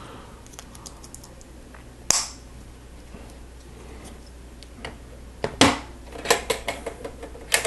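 Plastic Lego pieces clicking and clattering as they are handled and pressed together: a sharp click about two seconds in, another past the middle, and a quick run of clicks near the end.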